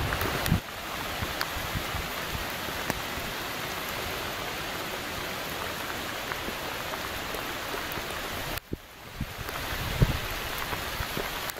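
Heavy rain falling on a pond's surface, a steady even hiss of drops on the water. The sound drops away briefly about two-thirds through and fades back in, with a single low thump near the end.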